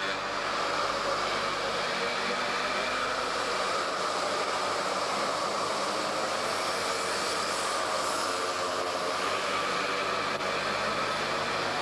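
Small minimoto (mini bike) engine running at high revs, a steady high buzz whose pitch drifts slowly down and back up.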